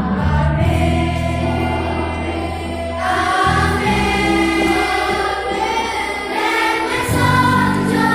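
Children's choir singing with instrumental accompaniment, holding sustained notes.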